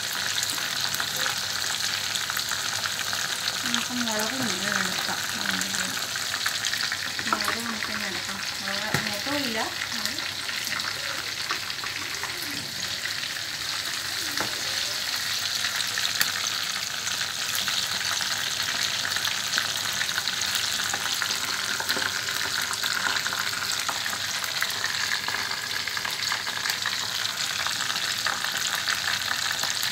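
Marinated chicken pieces deep-frying in hot oil in a kadai: a steady, even sizzle with a few sharp clicks.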